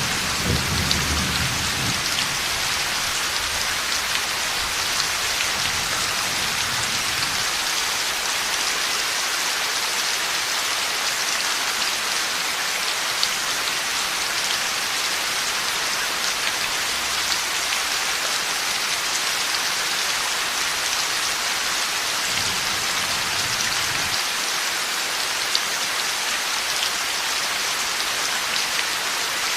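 Heavy rain falling steadily in a thunderstorm. A low rumble of thunder dies away over the first few seconds, and a short low rumble comes again a little over twenty seconds in.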